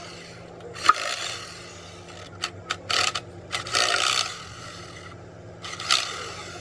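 Several short scraping strokes and a sharp click about a second in, over a steady low hum.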